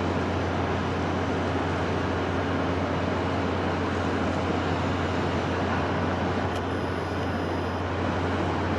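Steady wind sound, a constant even noise with a deep low rumble underneath.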